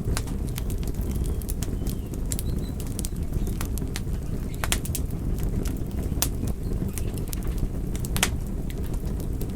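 Wood fire crackling: irregular sharp pops and snaps over a steady low rumble of burning, with a few louder pops in the second half.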